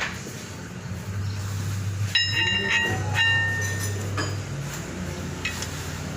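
Steel tools or parts clanking against metal: a sharp strike about two seconds in rings on with a clear metallic tone, followed by a second ring and a few lighter clinks, over a low hum that comes and goes.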